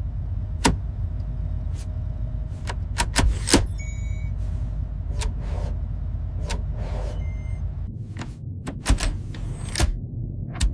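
Animated action sound effects: a steady low engine-like rumble with scattered sharp metallic clicks and clanks, a couple of soft whooshes, and a brief high electronic chirp about four seconds in.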